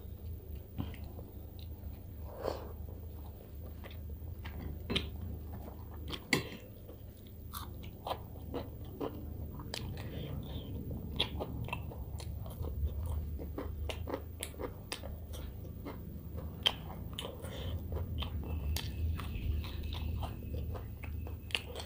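Close-miked eating sounds of a person eating rice and fish curry by hand: chewing with many small sharp mouth clicks and smacks, and a few crunchy bites, over a steady low hum.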